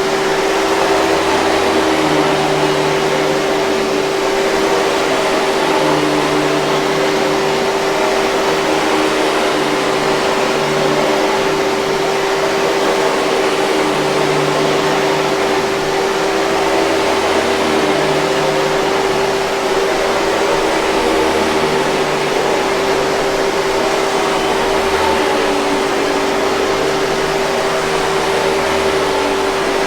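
Hoover 5000 Series canister vacuum cleaner running steadily: a constant whooshing hiss with a steady hum over it.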